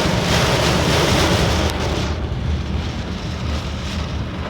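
Car driving on a flooded road: a loud hiss of tyres throwing up water that drops away sharply about two seconds in, over a steady low road rumble.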